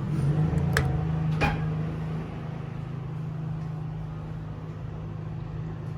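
Small portable generator running at a steady speed, an even hum, with two brief clicks in the first second and a half.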